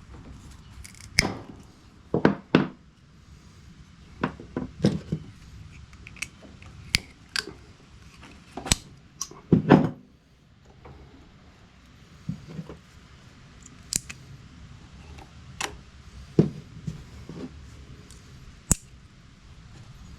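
Hand tools and small fuel-line parts being handled while a lawn tractor's in-line fuel filter is swapped and a shutoff valve fitted: irregular sharp clicks, snaps and a few heavier knocks, spaced unevenly.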